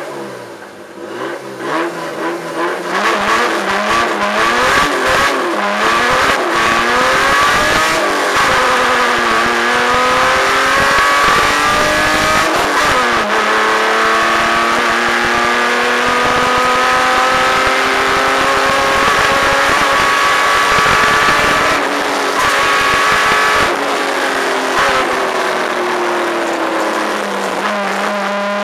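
BMW rally car's engine heard from inside the cabin, accelerating hard and revving up through the gears, with the pitch dropping at each quick shift. It then holds high revs, the pitch rising and falling as it drives the stage.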